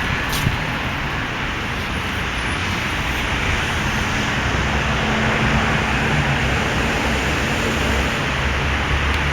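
A steady engine-like rumble under an even hiss, with one brief click about half a second in.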